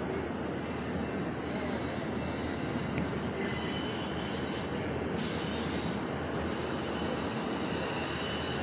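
Train rolling past at a distance: a steady rumble of wheels on rail, with a faint thin wheel squeal coming in about halfway through.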